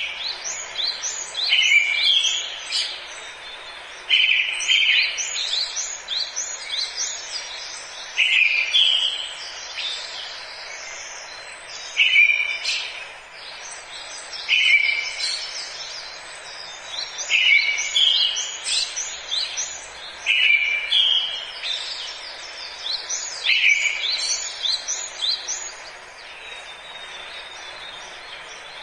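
Forest birdsong: a songbird repeating a short phrase every two to three seconds, each a lower opening note followed by a quick run of higher notes, over a steady background hiss.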